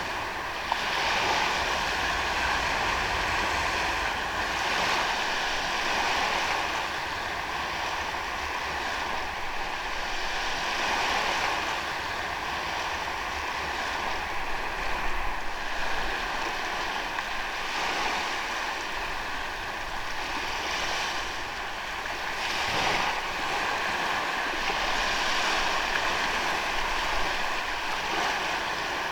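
Ocean waves breaking and washing up a sandy beach, the surf swelling and easing every few seconds.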